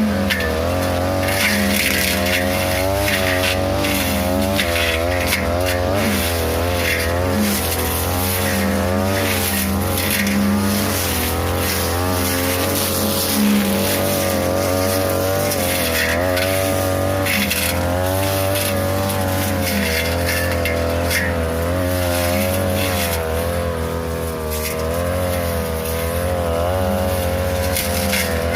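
42cc two-stroke brush cutter running at high speed, its engine note wavering up and down as the blade bites into tall grass and brush, with frequent short hits from the blade striking stems.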